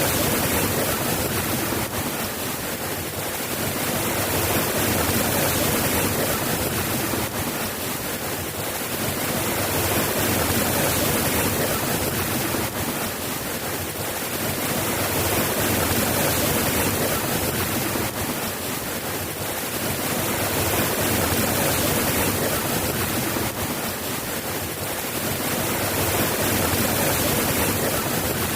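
Steady soft rain, an even hiss and patter that swells and eases gently about every five to six seconds.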